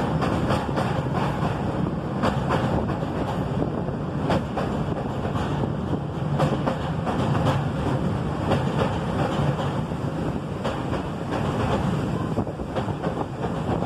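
Narrow-gauge passenger train running, heard from a coach window: a steady rumble of the wheels on the rails with irregular clacks, and wind buffeting the microphone.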